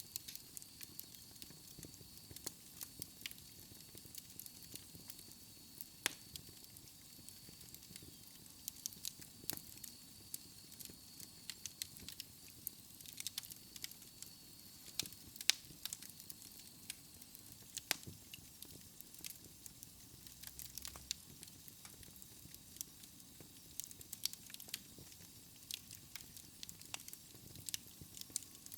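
Wood fire burning in a fireplace: logs crackling with irregular sharp pops over a low hiss, a few pops much louder than the rest. A faint high steady tone runs under the crackle and stops about halfway through.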